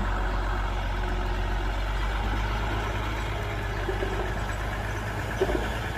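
Heavy diesel engine of earthmoving machinery running steadily, with a single short knock near the end.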